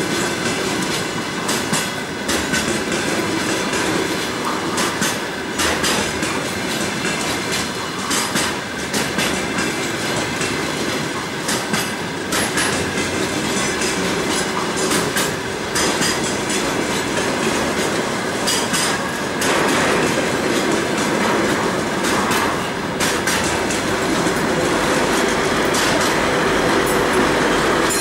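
Loaded container flat wagons of a freight train rolling past, with steel wheels clicking over the rail joints and a faint steady wheel squeal. Over the last few seconds a low diesel rumble builds as the 2M62U pusher locomotive approaches.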